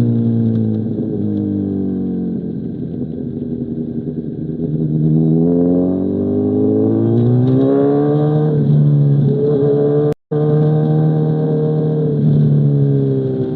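Inline-four engine of a 2005 Honda CBR1000RR through an SC Project CR-T exhaust, under way: the revs drop off over the first few seconds, climb again, hold, and fall away near the end. The sound cuts out for a split second about ten seconds in.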